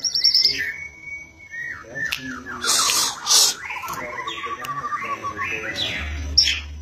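Songbird singing loudly: a varied run of whistles, gliding notes and fast trills, with short sharp bursts of louder high notes about three seconds in.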